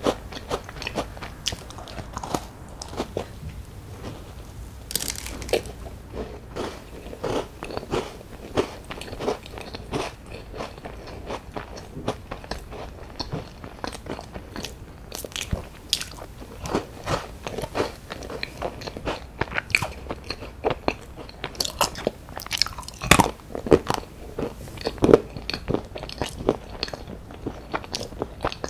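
Bites and crunchy chewing of a crisp strawberry-jam tart biscuit: many sharp crunches throughout, with a louder run of bites about three quarters of the way in.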